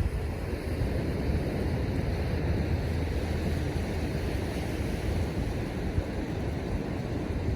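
Wind buffeting the microphone in a low rumble, over the steady rush of surf breaking on the beach.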